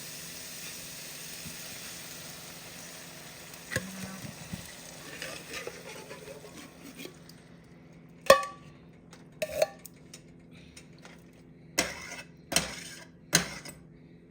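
Food sizzling faintly in a cooking pot, then a run of sharp metal clanks and knocks from a utensil against the pot and can, about eight of them in the second half. The loudest comes about eight seconds in and rings briefly.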